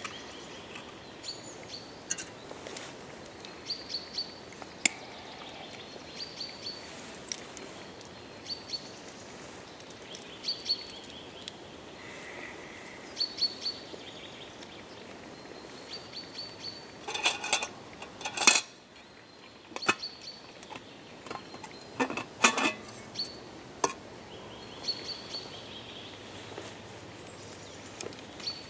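A small bird calling over and over with short high notes, one every second or two, over a steady outdoor hiss. About two-thirds of the way through come two short runs of clattering and knocking, things being handled.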